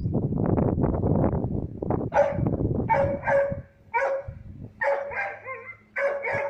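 Wind buffeting the microphone with a low rumble, then a dog barking about six times in short calls from about two seconds in.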